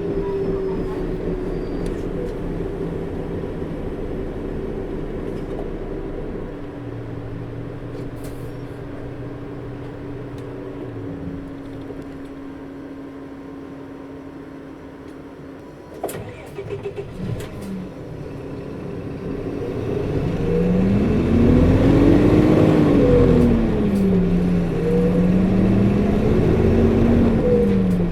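Diesel city bus running, heard from inside: the engine note eases and quietens to a steady low hum, a few clicks and knocks come about 16 seconds in, then the engine pulls away with its pitch rising, dropping at a gear change and rising again.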